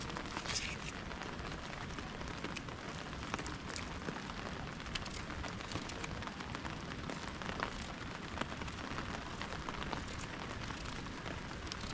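Steady rain falling outdoors, with many scattered drop ticks on nearby surfaces.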